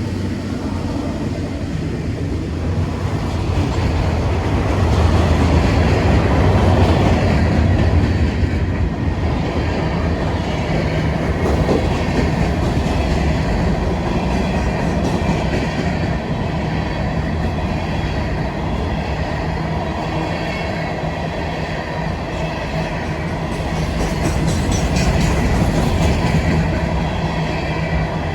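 Norfolk Southern freight train rolling past at close range: a steady rumble of wheels on rail with low engine tones, swelling about a quarter of the way in and again near the end.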